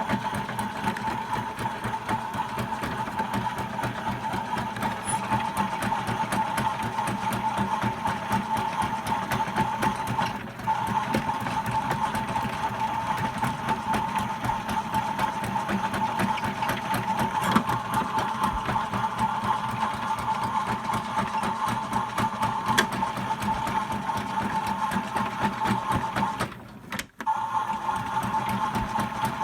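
Toy washing machine's small electric motor running with a steady high whine and a fast rattle. It dips briefly twice, about ten seconds in and again near the end.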